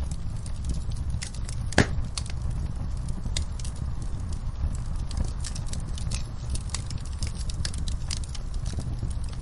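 Fireplace fire crackling: scattered sharp pops and snaps over a steady low rumble, with one louder pop about two seconds in.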